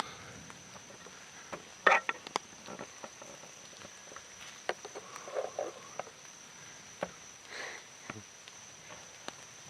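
Steady high-pitched insect drone through the evening woods, with scattered clicks, knocks and rustles. A sharp, loud snap stands out about two seconds in.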